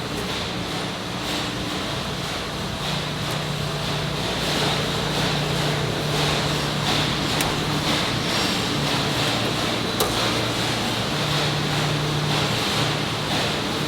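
Steady industrial machinery noise with a constant low hum and a couple of brief sharp clicks.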